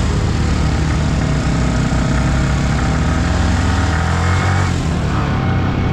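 Yamaha R15 V3 motorcycle's single-cylinder engine pulling under acceleration uphill, its note climbing, then shifting about three-quarters of the way through, with steady wind noise over it.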